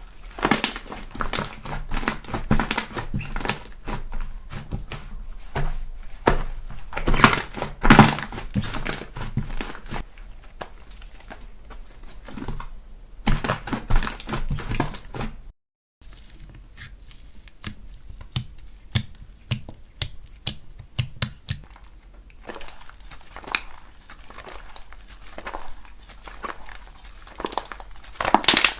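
Slime being squished, poked and stretched by hand, giving rapid irregular crackles, clicks and sticky pops. It drops out completely for a moment about halfway through, then resumes.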